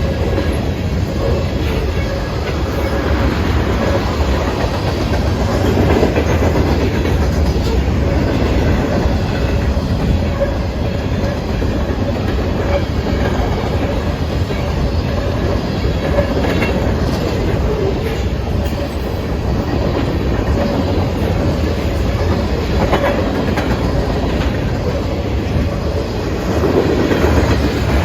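Train cars rolling steadily past on the track, their wheels clacking over the rail joints in a continuous loud rumble.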